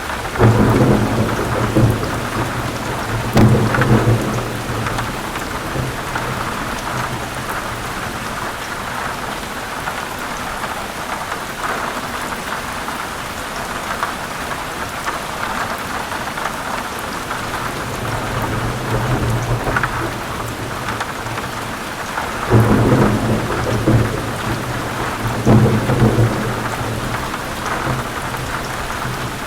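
Heavy rain falling steadily on forest leaves, with thunder rumbling in the first few seconds and again in the last third.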